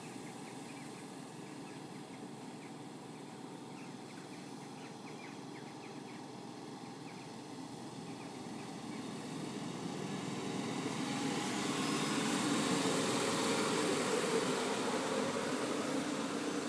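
Old electric commuter train pulling away from a station. A steady low hum at first, then motor and rail noise that swells from about eight seconds in and is loudest near the end as the train gathers speed.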